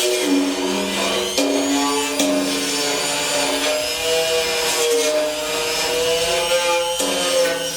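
Dremel rotary tool running at high speed as it cleans rust off metal threads, a whine whose pitch shifts up and down as the load on the bit changes.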